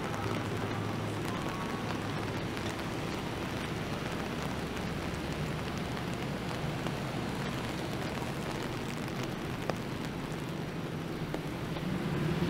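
Steady rain and traffic on a wet city street: a continuous hiss of rain and tyres on the wet road over a low engine hum, swelling a little near the end.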